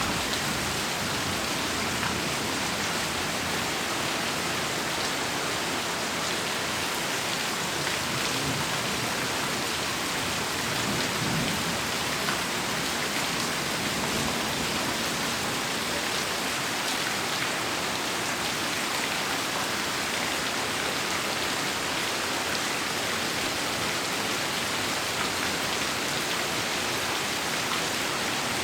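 Heavy rain falling steadily, a dense even hiss. A soft low rumble of thunder swells briefly about eleven seconds in.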